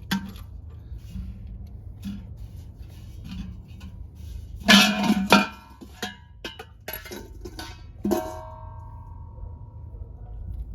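Clicks and knocks of tools and lug-nut work on a truck wheel hub, with a brief loud burst about halfway through. Near the end comes a metallic clank whose ring carries on for a couple of seconds, over a steady low hum.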